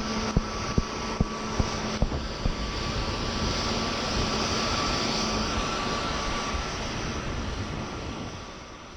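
Jet airliner engines running steadily with a whining rush. A regular ticking, about two to three ticks a second, sounds over the first two seconds or so. The sound fades out near the end.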